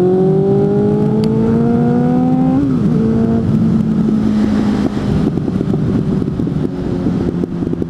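Suzuki GSF 600 Bandit's inline-four, fitted with an aftermarket exhaust, accelerating with its pitch rising steadily. About two and a half seconds in, the throttle shuts and the engine runs down on engine braking, with irregular crackling backfires from the exhaust and wind rushing past.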